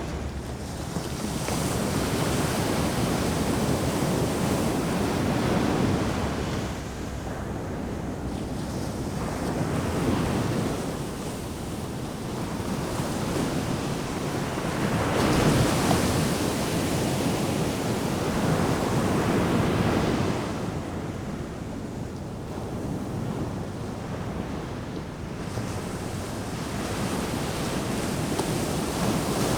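Ocean surf breaking on a beach, a steady wash of noise that swells and ebbs with each wave every few seconds, loudest about halfway through.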